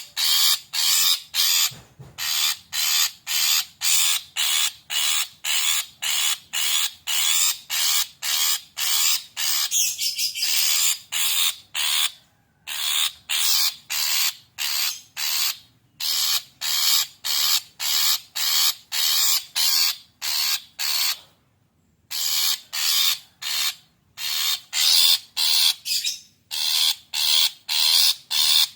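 Long-tailed shrike giving rapid, harsh chattering calls, about three a second, in long runs broken by a few short pauses: the agitated calling of an excited bird.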